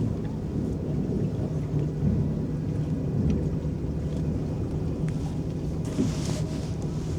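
Electric boat moving across a lake: a steady low rumble of motor and water with a constant low hum, light water lapping, and a brief splash-like hiss about six seconds in.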